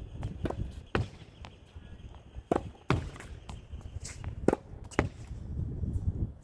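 Tennis rally against a practice wall with a lightweight low-compression ball: sharp thwacks of racket strokes and the ball hitting the wall and court, coming in pairs about half a second apart, roughly every two seconds. A low wind rumble on the microphone runs underneath.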